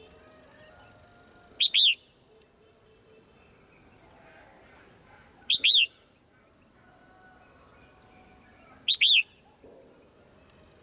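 Swallow calling: three loud, sharp double chirps, each about a third of a second, repeating roughly every three and a half seconds, over a steady high hiss and faint softer bird twittering.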